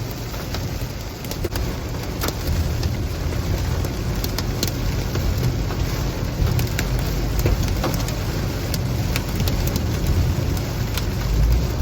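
Hailstones striking the car in scattered, irregular sharp knocks over the steady hiss of heavy rain, with a low rumble of wind and road noise, heard from inside the moving car.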